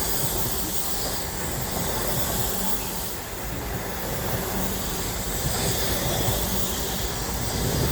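Steady rushing noise of a passing train, a mix of wheel-on-rail noise and hiss: the Midland Pullman, a High Speed Train set with Class 43 power cars, running through at speed.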